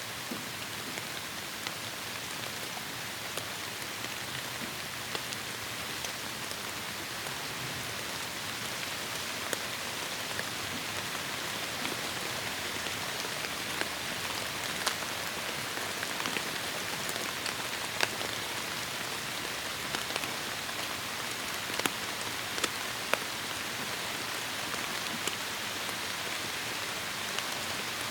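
Heavy rain falling steadily in a forest, a constant hiss with many sharp individual drop impacts scattered through it, building slightly in intensity.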